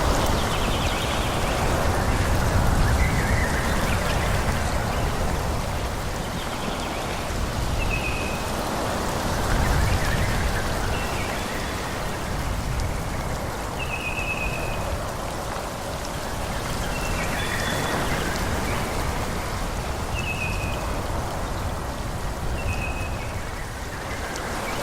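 Wind blowing through a forest in slow gusts, with short high bird chirps every few seconds.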